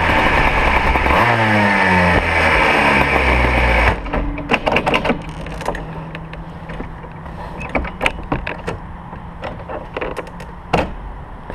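Modena two-stroke kart engine with its revs falling as the kart slows, then dropping abruptly to a quieter idle about four seconds in. Scattered sharp clicks and knocks follow, one louder knock near the end.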